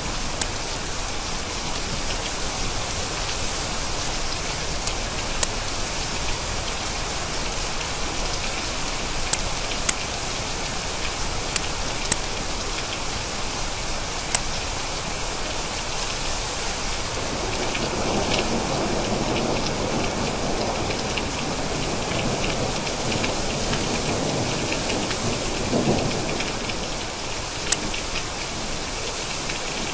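Steady heavy rain with scattered sharp drip ticks. A low roll of thunder builds a little past halfway and peaks a few seconds before the end.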